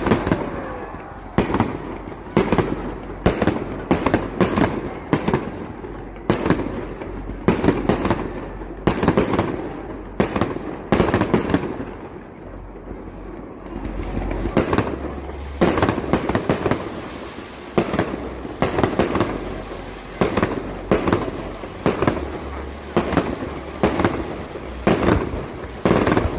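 Aerial fireworks bursting in quick succession: sharp bangs about one or two a second over a low rumble, with a brief lull about halfway through before the bangs pick up again.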